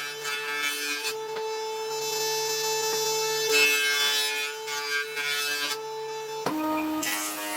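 Hand plane strokes rasping along old roof-beam timber: one at the start, one about three and a half seconds in and another near the end, over background music with held notes that change near the end.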